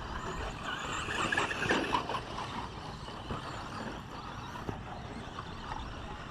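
Radio-controlled 2WD short course trucks running around the track, their motors whining up and down in pitch, loudest about a second in.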